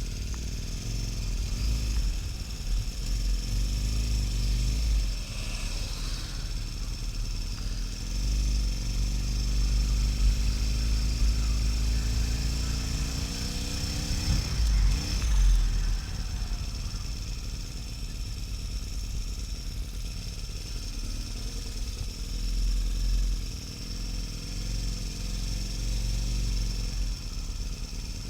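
Harley-Davidson XL1200N Sportster's air-cooled V-twin running under way, with heavy wind rumble on the microphone. About halfway through, the engine pitch climbs steadily as the bike accelerates, then drops suddenly at a gear change.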